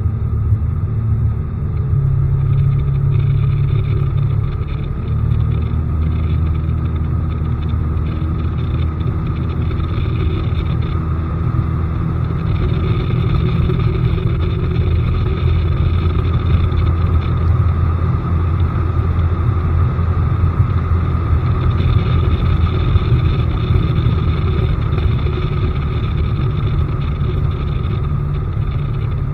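Bass boat's newly fitted outboard motor running under way, with a steady low drone. The engine note changes pitch twice in the first few seconds, then holds steady.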